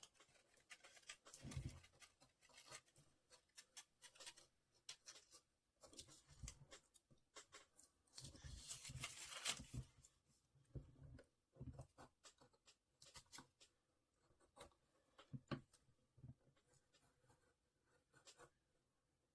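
Faint scratching and clicking of paper being cut and handled, with a longer stretch of rustling about eight to ten seconds in.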